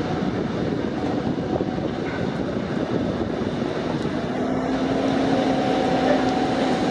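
Steady engine and rushing wind noise of a moving vehicle, with a low steady hum that comes up about halfway through.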